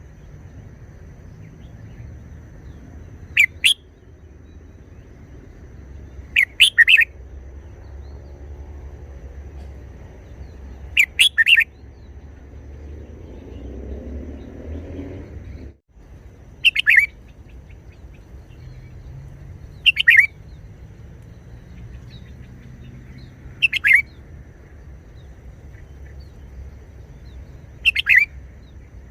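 Red-whiskered bulbul singing short, loud phrases, seven in all, one every three to four seconds.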